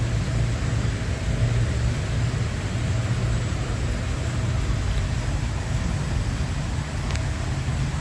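Automatic car wash machinery running: a steady low rumble with a hiss of water and machinery over it.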